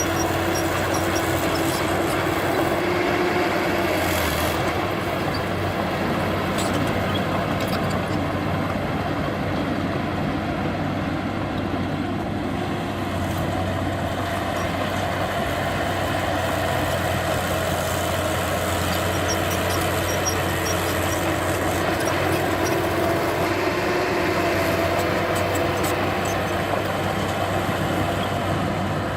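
Heavy diesel earthmoving machinery running steadily under load, its engine note holding a constant pitch.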